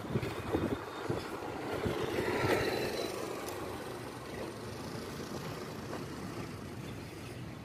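Freight train of open steel wagons rolling past, the wheels running on the rails with a steady rumble that swells about two to three seconds in and then eases.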